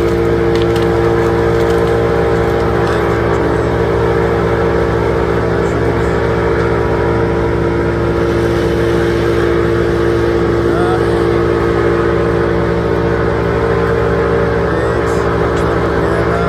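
Engine of heavy tree-service machinery running at a steady speed: a loud, even drone that holds one pitch throughout.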